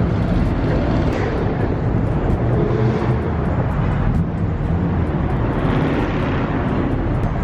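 Car engines running in a steady low rumble, swelling briefly about a second in and again around six seconds in.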